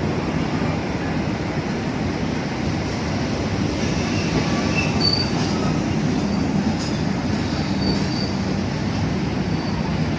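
Passenger train rolling along the station tracks: a steady rumble of wheels on rail, with several short high wheel squeals in the second half.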